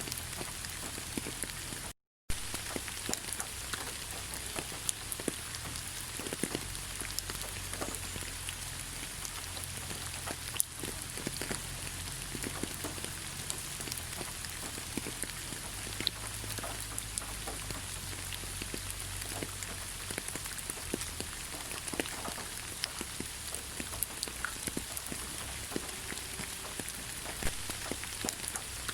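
Steady rain falling in a forest, with many single drops ticking close by. The sound cuts out completely for a split second about two seconds in.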